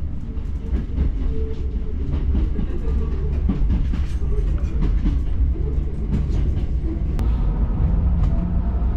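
Hakone Tozan Railway train running, heard from inside the carriage: a steady low rumble with rapid wheel clicks on the rails. A faint whine rises slowly near the end.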